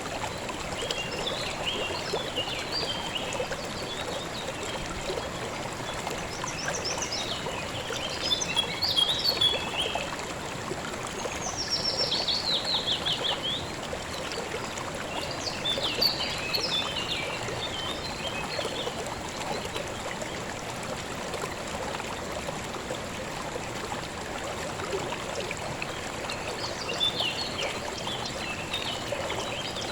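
River water flowing and trickling steadily, with small birds singing over it in short phrases of chirps and trills several times, one a quick falling run of notes.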